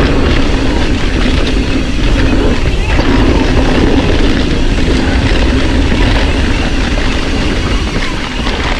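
Mountain bike rolling along a dirt forest trail: a steady, loud rumble of tyres and bike noise with wind buffeting the microphone.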